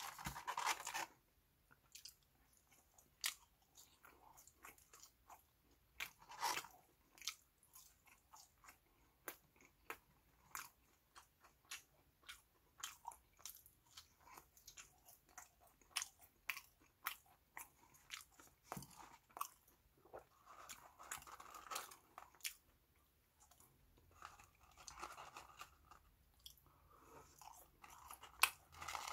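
Close-up chewing and biting of French fries, with many irregular crisp crunches. Paper fry-carton packaging crinkles now and then, near the start and again near the end.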